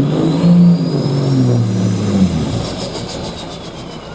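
Pro stock semi truck's diesel engine under full throttle pulling the sled, with a high turbo whistle rising over it. About two seconds in the engine backs off and the whistle winds down.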